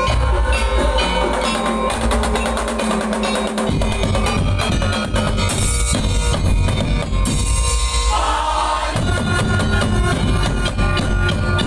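Madurese daul music played loud: a drum-heavy percussion ensemble with a deep bass beat and fast drum hits under a melody line, the rhythm pattern shifting a few times.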